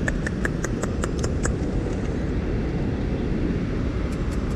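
Mini Crosser mobility scooter rolling over rough ground, a steady low rumble. A quick run of sharp ticks, about five a second, stops about a second and a half in.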